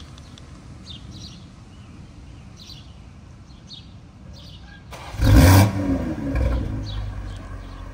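BMW M440i's B58 3.0-litre turbocharged inline-six, breathing through a catless downpipe, starting up about five seconds in. It gives a loud, nasty flare of revs that falls away within a couple of seconds and settles into an idle. The engine is still warm, so it is not a true cold start.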